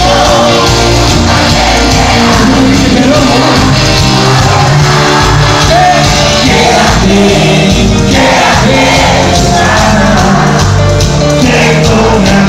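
Live cuarteto band playing loudly, with a sung vocal line over a steady, dense beat.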